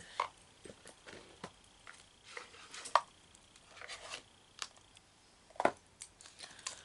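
Scattered light clicks and taps, with a few short swishes, of things being handled on a table.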